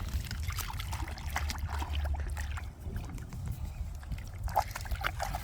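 River water sloshing and trickling as a toy monster truck is dipped and rinsed in it, with many small irregular splashes over a low steady rumble.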